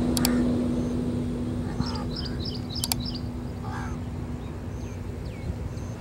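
Birds chirping: a quick run of short high notes about two seconds in and a couple of brief falling calls later, over a steady low hum that fades out near the end.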